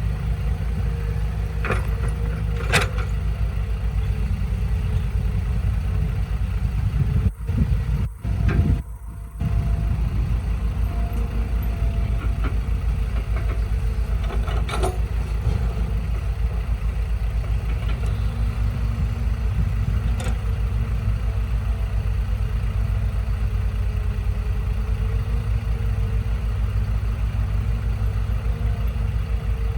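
Truck engine running at a steady idle with an even low pulse, broken by a few sharp clicks and by brief drop-outs about seven to nine seconds in.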